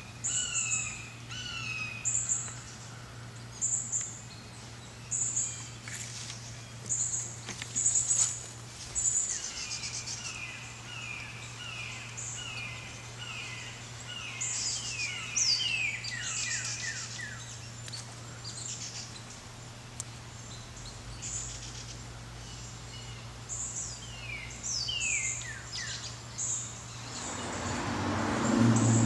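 Small birds chirping in repeated short down-slurred calls mixed with high thin notes, over a steady low hum. A louder rushing noise with low rumble swells up near the end.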